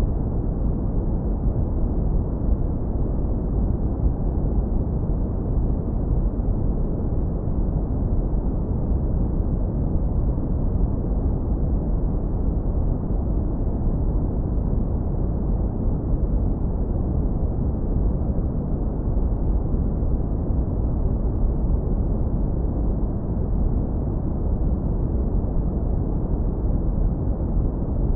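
Steady synthetic brown noise, heavily low-pass filtered so that only a deep, warm rumble remains, with nothing above it and no change in level.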